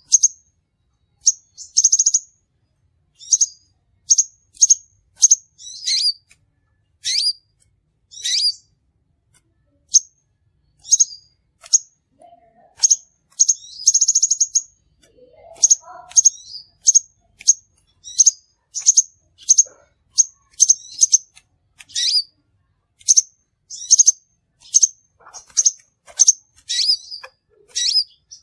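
Crimson sunbird calling: a long, irregular series of short, high, sharp chirps, about one or two a second, some in quick pairs.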